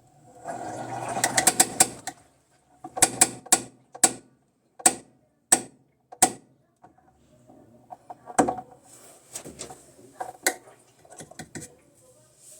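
Mechanical rattling, then a string of separate sharp clicks and knocks, roughly one every half second to a second.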